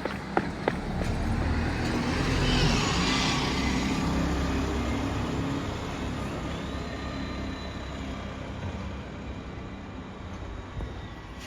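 A bus passing close by on the road, its engine and tyre noise swelling to a peak about three seconds in and then slowly fading away. A few sharp clicks come right at the start.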